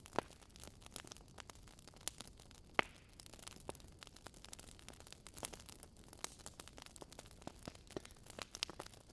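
Wood bonfire crackling: irregular small pops and snaps over a faint hiss, with two sharper pops, one just after the start and one about three seconds in.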